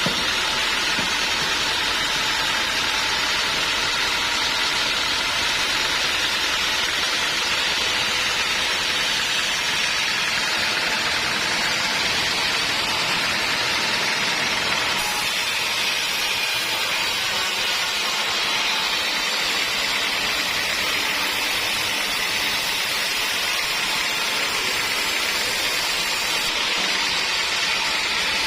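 Homemade band sawmill running steadily, its blade cutting through a teak log with a loud, even, unbroken noise.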